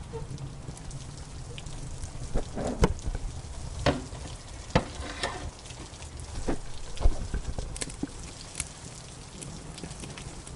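Wood fire crackling in a fireplace, with scattered sharp pops, the loudest about seven seconds in, over the steady sound of rain.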